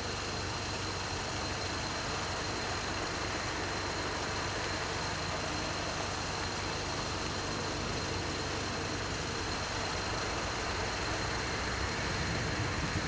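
Steady low rumble and hiss, growing louder in the low end near the end as a train approaches the level crossing.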